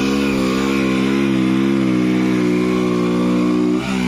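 Hero Splendor Plus motorcycle's single-cylinder four-stroke engine held at steady revs, its pitch wavering gently up and down, then dropping abruptly near the end.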